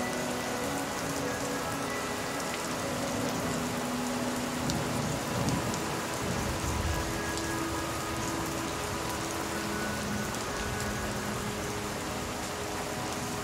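Steady rain falling, with a low rumble of thunder that swells about four and a half seconds in and dies away by about seven and a half seconds. Soft sustained music notes sound underneath.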